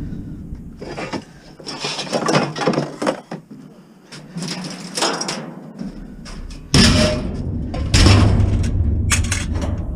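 Scrap metal being handled, with repeated clanks and knocks. There are two heavier bangs about seven and eight seconds in, followed by a low rumble.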